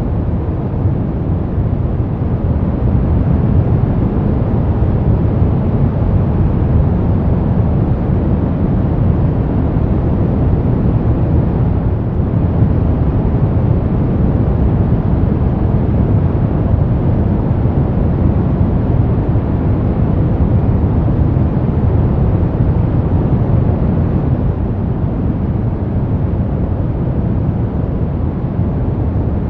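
Brown noise: a steady, deep rumbling hiss with most of its weight in the bass, unchanging throughout.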